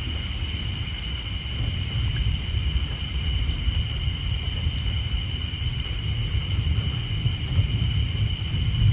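Continuous low rumble of distant thunder under a steady, high-pitched chorus of tree frogs.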